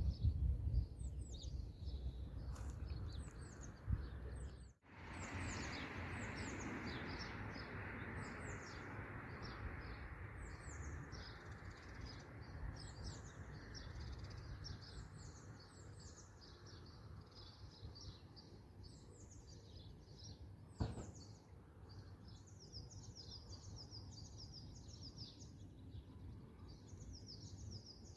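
Small birds chirping over and over in short, high, falling notes over a steady outdoor background hiss. The sound drops out abruptly for a moment about five seconds in, and there is a single click near the end.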